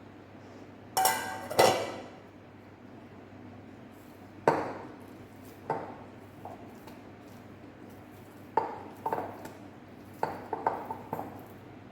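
Dishes and utensils clinking and clattering: a string of sharp, separate knocks with brief ringing, bunched more closely in the last few seconds.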